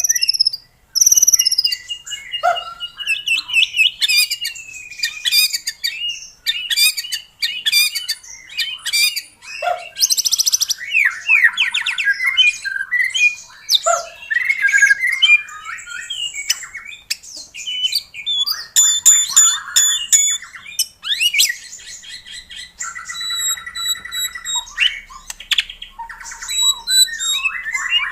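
White-rumped shama singing in full song: a fast, varied run of clear whistles, rising and falling glides, rapid trills and harsh chattering notes.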